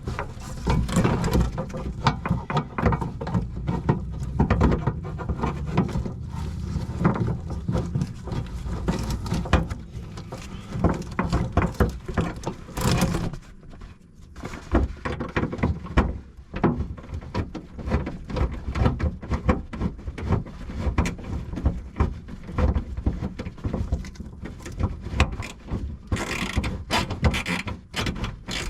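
Irregular metallic clunks, scrapes and rattles as a car window regulator motor is worked into a door's inner cavity and fastened with a screwdriver, with a short quieter spell midway.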